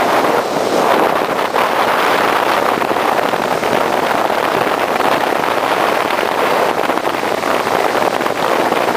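Bombardier jet ski running at speed, heard from on board: a loud, steady rush of engine and water noise with wind buffeting the microphone.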